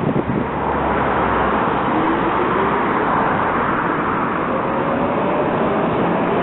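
Tram running past with a steady rumble and a faint whine rising slowly in pitch.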